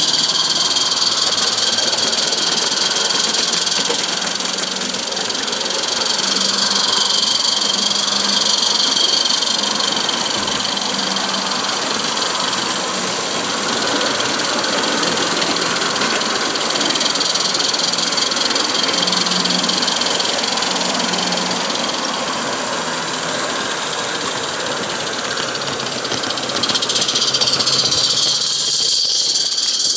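A live-steam 16mm-scale model locomotive running on a garden railway, with a continuous chuffing, hissing steam sound and the rattle of its train, rising and falling in loudness as it passes.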